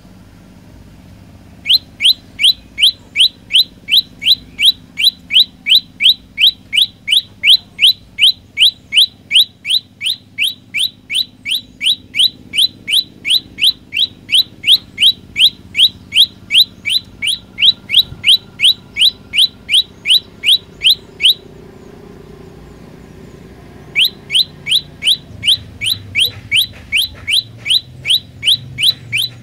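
Prenjak lumut singing a long, rapid series of identical sharp rising notes, about three or four a second, for nearly twenty seconds. It breaks off and starts the same series again a couple of seconds later.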